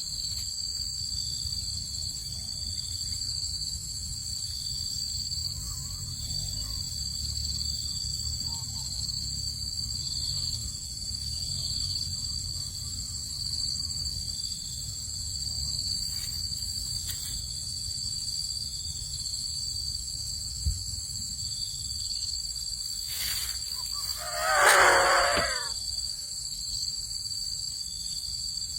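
Steady high trilling of crickets or similar insects over a low rumble. About 24 seconds in, a louder animal call of about a second and a half stands out.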